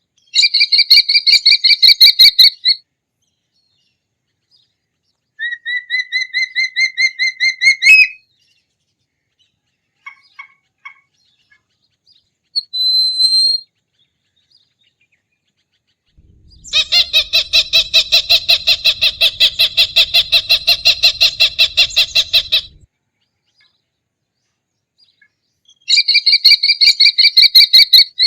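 A hawk calling in bouts of rapidly repeated shrill notes, several a second. The longest bout lasts about six seconds, one bout rises in pitch, and there are a few short single calls between bouts.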